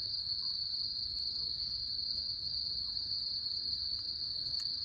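Steady chorus of insects, a continuous high-pitched trill. There are a few faint crackles near the end.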